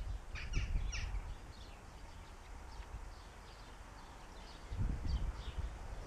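Small garden birds calling: a quick cluster of short, high chirps about half a second in, then fainter scattered chirps. A low rumble of wind on the microphone swells near the end.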